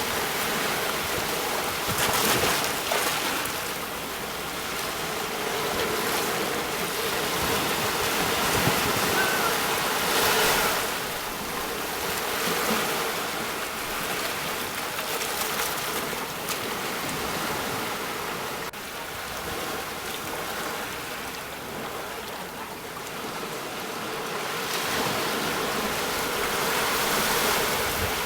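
Sea waves breaking on a shore: a continuous rushing wash of surf that swells louder several times as waves come in.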